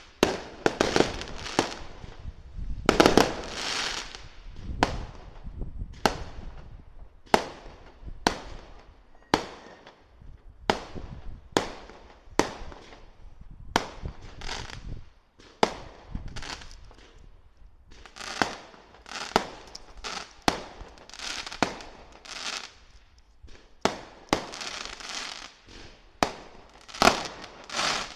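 Fireworks going off in a steady run of sharp bangs, roughly one a second, each trailing off in a short hiss.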